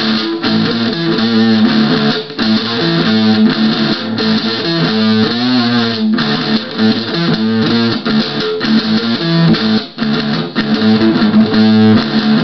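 Guitar tuned to drop D playing a repeating rock riff: palm-muted open low strings alternating with fretted notes at the 7th and 8th frets of the low strings.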